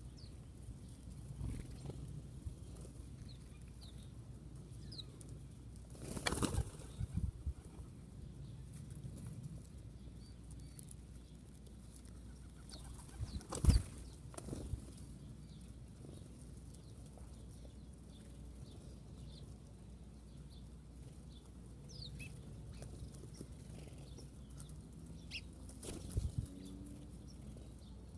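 Birds' wings flapping in a few short, sharp flurries, the loudest about halfway through, with faint scattered bird chirps between.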